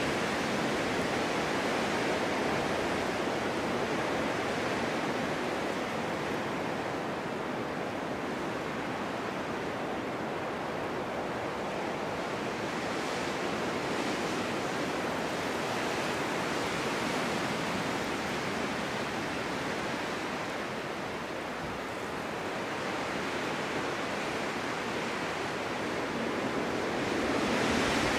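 Snowstorm wind blowing in a steady, even rush, easing a little past the middle and building again near the end.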